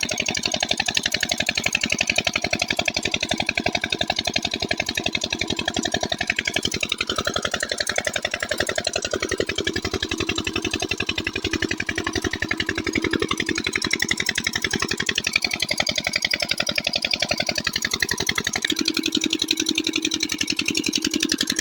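Diesel water-pump engine running steadily, with a fast, even beat of firing strokes.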